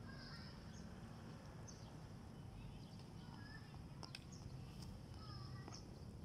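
Faint chirping of small birds: short, scattered calls, some falling in pitch, over a low steady outdoor rumble.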